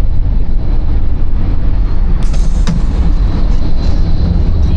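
Al Boraq high-speed train running at speed, a loud steady rumble, with a few sharp clicks a little over two seconds in.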